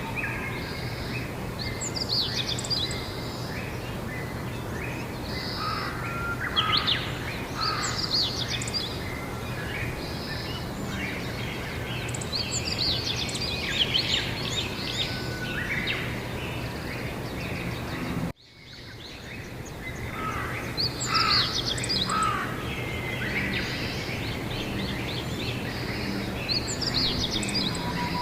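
Several wild birds chirping and singing in short, repeated phrases over a steady low hum of outdoor background noise. About two-thirds of the way through the sound cuts out abruptly, then fades back up with the birds still singing.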